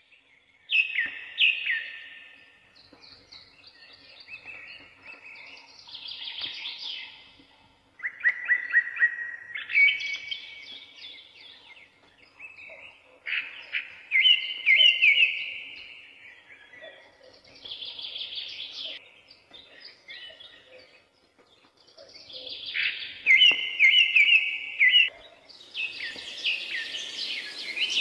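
Songbirds singing: a series of short chirping phrases and trills, each a second or two long, with brief pauses between them. A rushing hiss comes in near the end.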